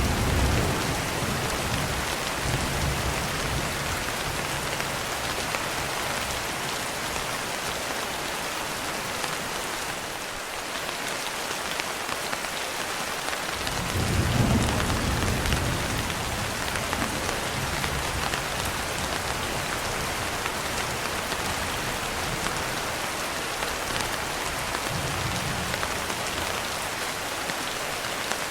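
Steady rain with low rolls of thunder. The loudest rumble comes about halfway through, with a fainter one near the end.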